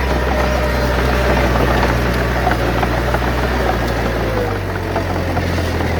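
Heavy diesel earthmoving machinery, likely the bulldozer, running with a steady low drone. Its tone shifts a little about four and a half seconds in.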